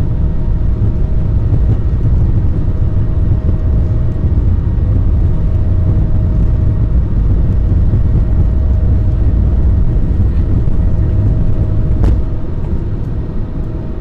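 Cabin noise aboard an Airbus A220-300 (CS300) in motion: a loud, steady deep rumble of its Pratt & Whitney PW1500G geared turbofans and airflow, with a faint steady hum above it. A click about twelve seconds in, after which the rumble is a little quieter.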